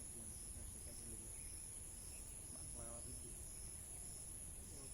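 Insect chorus: a steady high-pitched trill with a pulsing chirp repeating about twice a second over it. A faint voice is heard briefly about three seconds in.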